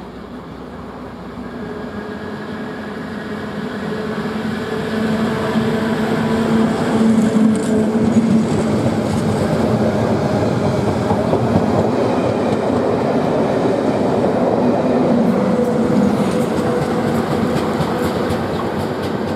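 Locomotive-hauled test train with Class 73 electro-diesel locomotives passing close by. A steady drone grows louder over the first several seconds, then the rumble and wheel clatter of the coaches continue until the rear locomotive passes near the end.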